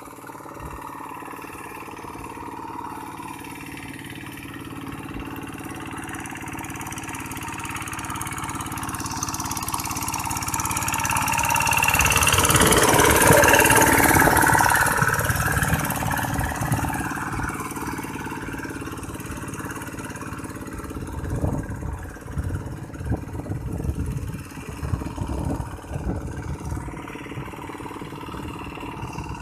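Tractor engine running steadily, growing louder toward the middle and fading again as it passes close by.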